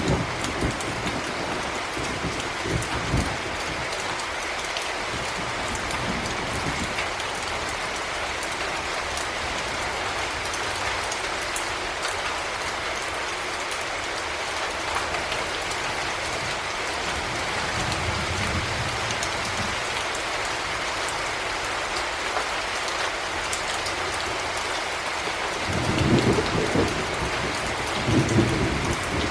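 Heavy rain falling steadily, a dense even hiss of drops. Low rumbles of thunder swell in at the start, again around the middle, and twice more strongly near the end.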